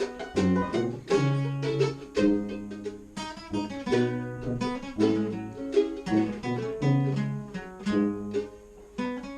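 Acoustic plucked-string instruments playing an instrumental passage without vocals: guitar-like notes picked in quick succession over a low bass line.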